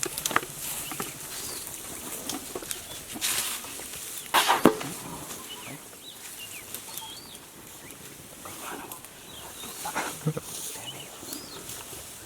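Birds calling in short, scattered chirps, with a brief louder noise about four and a half seconds in and a smaller one near ten seconds.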